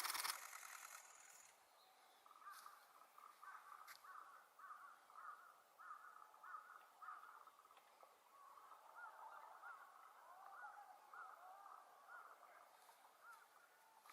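Faint bird calls repeated in a long series of about two a second, after a short burst of noise at the very start.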